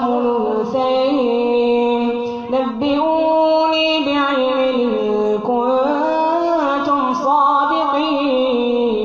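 A child's voice chanting Quranic recitation in the melodic tajweed style, holding long drawn-out notes that glide from one pitch to the next, with short breaths between phrases.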